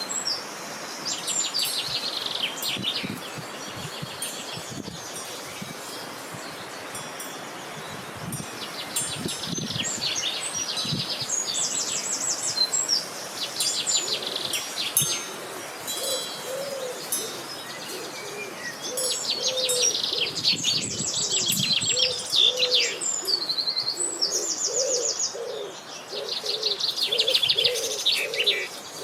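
Songbirds singing in repeated fast trilled phrases, high-pitched. From about halfway a dove joins in with a low cooing note repeated over and over.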